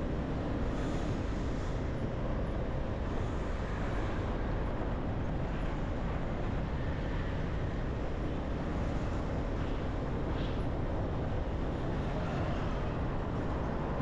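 Steady road and traffic noise heard from a moving motorbike, with no sudden events.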